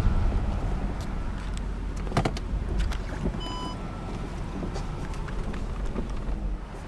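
Low rumble of a 2004 Audi A8 L's engine running, heard inside the cabin, slowly fading, with a few light clicks and one short electronic beep about halfway through.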